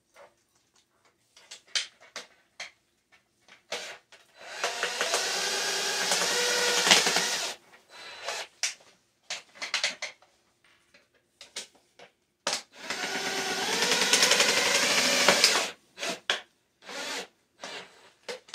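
Power drill driving screws through tin sheet metal: two runs of about three seconds each, the motor's pitch shifting under load. Short clicks and knocks of handling come between and around them.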